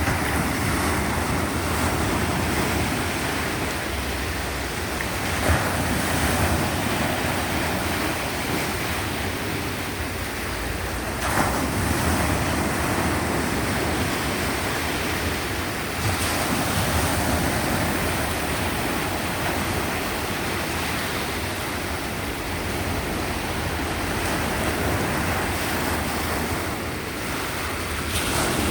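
Sea surf: waves breaking and washing on the shore in a steady rush of noise that swells and eases, with a few sharper surges as individual waves break.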